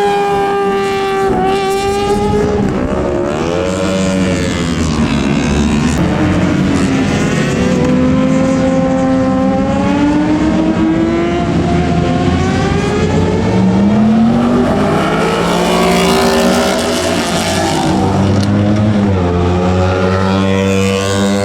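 Several racing superbike engines, 600 cc and up, running hard at the same time. Their pitch climbs and drops again and again as the bikes accelerate, shift and brake past.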